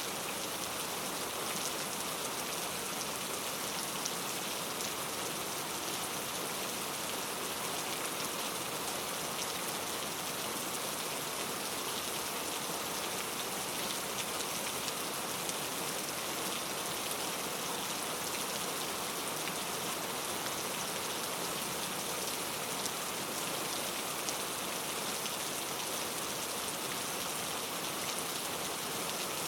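Steady rain falling in a forest, a dense hiss of drops on leaves and surfaces with fine scattered drop taps, even throughout.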